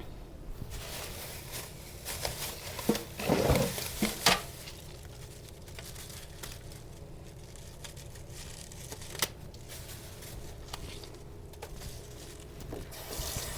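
Kitchen handling noises: crinkling and rustling with a few light knocks, loudest about three to four and a half seconds in. Near the end a tap starts running.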